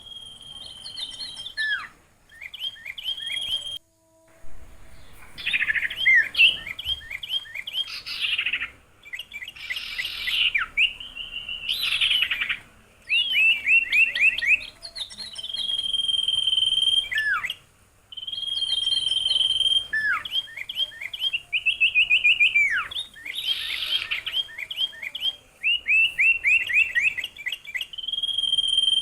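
A songbird singing in repeated phrases: long level whistles alternating with fast runs of short chirping notes and sharp down-slurred whistles, with brief pauses between phrases.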